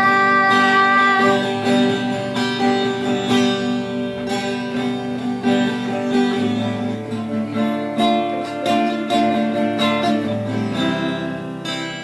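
Acoustic guitar strummed in an instrumental passage between sung verses.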